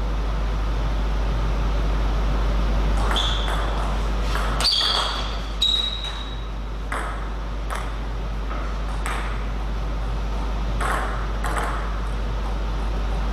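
Table tennis ball clicking off rackets and the table in an uneven series of sharp taps, some with a short high ring, loudest a little under five seconds and around six seconds in. A steady low hum lies under it.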